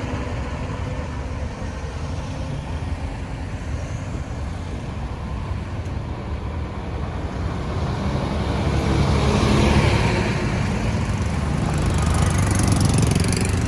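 Road traffic noise: engines and tyres of passing vehicles, with a vehicle passing louder about two-thirds in and another near the end.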